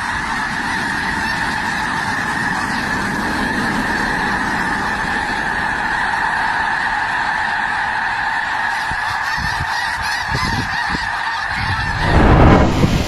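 Steady, dense chorus of honking from a large flock of geese. Near the end it gives way to a loud low rush of noise.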